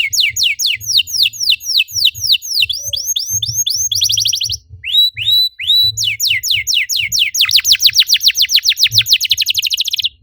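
Domestic canary singing: a run of quick downward-sweeping whistled notes, a short fast trill about four seconds in, then repeated sweeps that speed up into a long rapid trill, cutting off suddenly near the end.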